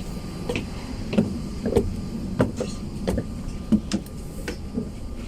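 Footsteps at a walking pace, about three every two seconds, over a steady low rumble.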